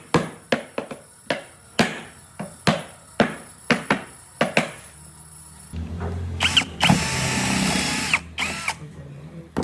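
Woodworking hand-tool and power-tool work: a run of sharp knocks about two a second, like hammering on wood. A little past halfway this gives way to a power tool running for about two and a half seconds with a low hum and a whine, then a few last knocks near the end.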